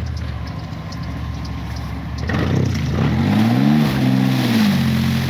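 Lifted 4x4 truck's engine running at a steady idle, then revving up about two seconds in and easing back as the truck drives through mud, with a rushing noise that comes in with the revs.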